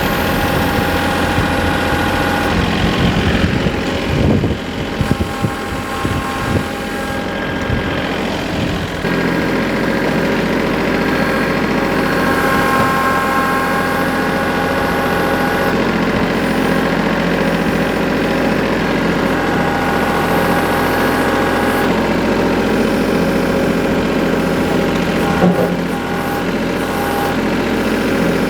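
A vehicle engine running steadily at idle, a little uneven for several seconds and then even.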